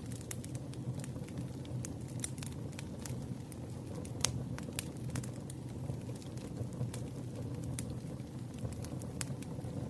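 Campfire burning, with irregular sharp crackles and pops over a steady low rumble, one louder pop about four seconds in.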